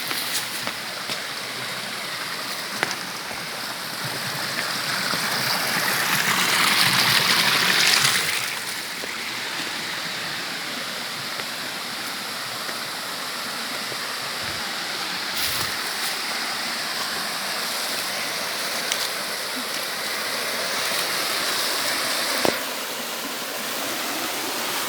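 Rushing stream water, a steady hiss that swells louder for a couple of seconds about six to eight seconds in, with a single sharp knock near the end.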